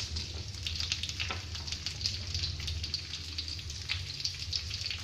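Sliced onions sizzling in hot coconut oil in a non-stick kadai: a steady frying hiss with scattered crackles and a couple of sharper pops, over a low steady hum.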